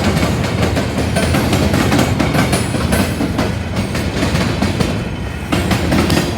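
Coal train's freight cars rolling past, a steady rumble with the wheels clicking and clacking over rail joints.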